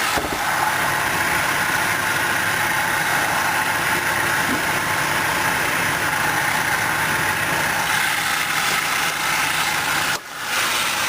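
Dodge 5.7-litre HEMI V8 idling steadily, heard from the open engine bay, with a brief dip about ten seconds in.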